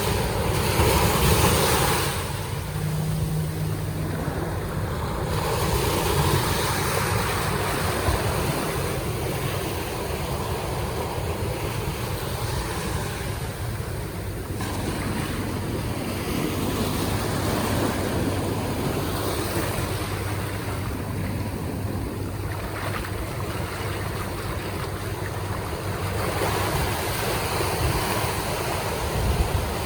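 Surf and rushing water at a river mouth, with wind buffeting the microphone; the sound swells and eases steadily, with a faint low hum underneath.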